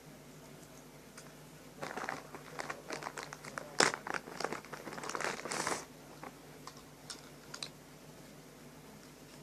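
Crinkling and rustling of something being handled for about four seconds, with one sharp click in the middle, then a few light ticks.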